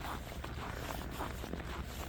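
Footsteps walking at a steady pace, about two steps a second, over a steady low rumble.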